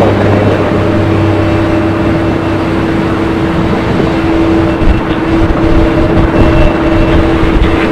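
Steady running noise of a vehicle, with a constant hum and a low drone throughout and a few louder spots in the second half.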